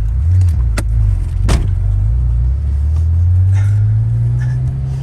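Car engine running and accelerating, its low drone rising steadily in pitch over the last couple of seconds. There are two sharp clicks in the first second and a half.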